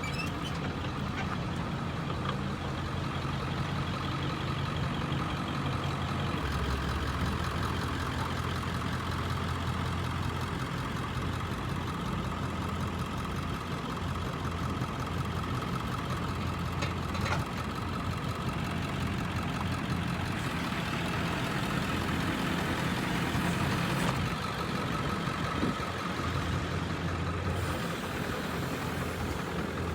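Truck engine idling steadily, with a faint steady higher whine above it. A couple of brief sharp knocks come about halfway through and again later on.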